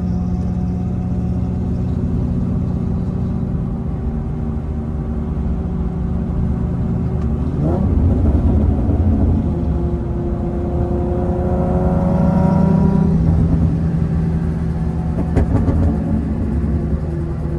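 Loud VQ37 3.7-litre V6 exhaust of a car under way, running with a steady drone. It revs up briefly about eight seconds in, then builds in pitch again around eleven to thirteen seconds in before easing off.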